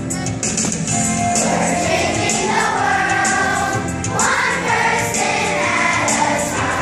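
A song sung by a group of voices in chorus, over a light percussion beat.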